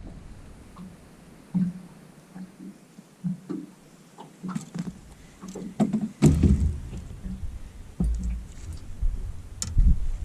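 Irregular knocks, thumps and a few sharp clicks of handling on a small fishing boat, with the heaviest thump about six seconds in.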